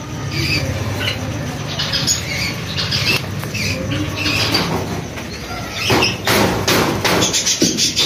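Small cage birds chirping now and then over a low steady hum, with a louder rustling flurry about six seconds in.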